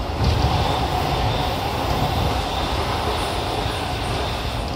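Odakyu 5000 series electric train running at speed, heard from inside the passenger car: a steady rumble of wheels on rail with a faint, even motor tone, growing louder about a quarter second in.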